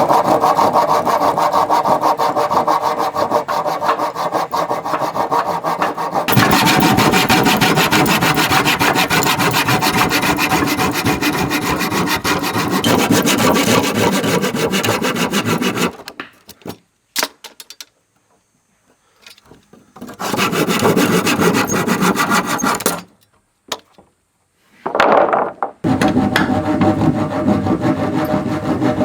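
Saw cutting wood: a long steady bout of rasping sawing for about sixteen seconds, a pause with a few clicks, then two shorter bouts of sawing.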